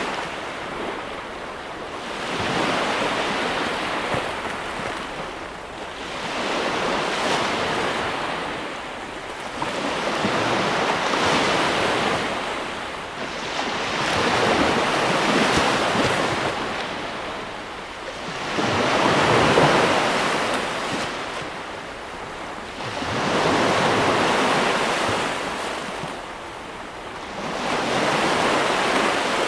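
Sea waves breaking and washing up, one surge about every four seconds, each rising and falling away.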